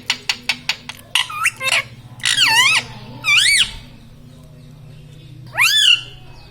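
Pet parrot calling: a quick run of clicking chatter, then three loud squawks that rise and fall in pitch, the last near the end.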